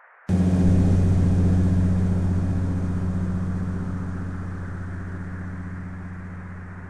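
Thunder sound effect: a loud, deep rumble that starts suddenly just after the start and slowly fades away.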